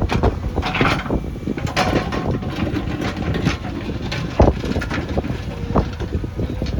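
JCB backhoe loader's diesel engine running under load, with irregular knocks and clanks from the machine at work.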